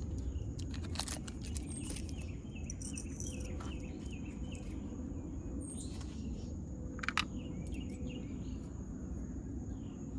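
Outdoor ambience with a steady low rumble, a thin steady high insect drone and small birds chirping. A few sharp clicks come through, the loudest about seven seconds in.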